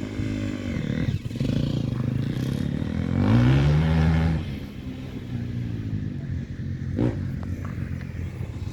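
Motocross bike engines running on the track, one revving up with rising pitch and loudest about three to four seconds in, then quieter.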